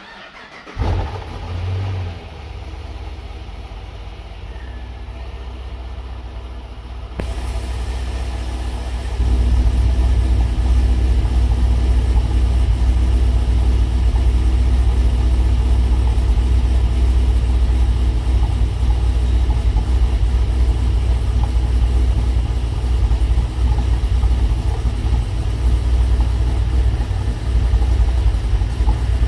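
Cold start of a Pontiac G8 engine with an aftermarket Cammotion camshaft, breathing through longtube headers, an X-pipe and Hooker Maxflow mufflers. It fires about a second in with a brief flare of revs, then settles into a steady idle that grows louder about seven and nine seconds in.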